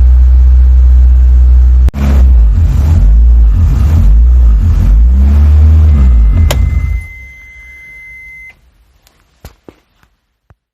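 Race car engine on a cold start, idling loudly, then revved several times with the pitch rising and falling before it cuts off about seven seconds in. A steady high beep sounds for a couple of seconds as it stops, followed by a few faint clicks.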